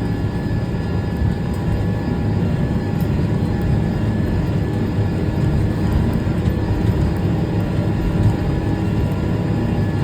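Tractor engine running steadily under load, heard from inside the cab while pulling a disc harrow.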